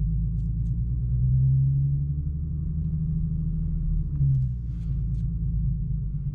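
Infiniti Q50's engine running at low speed, a steady low rumble, with a few faint ticks.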